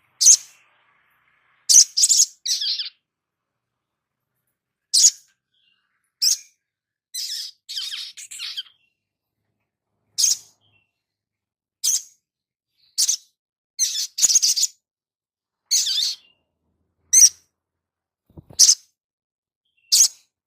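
A small songbird of the sunbird family, kept in Indonesia as a 'kolibri', giving short, sharp high-pitched chirps and calls at irregular intervals, with a couple of brief chattering trills among them.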